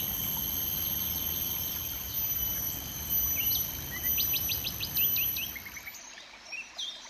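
Wild birds calling: scattered short chirps and a quick run of about six sharp notes around four to five seconds in. Under them is a steady high-pitched whine and low background noise, both of which cut off about six seconds in.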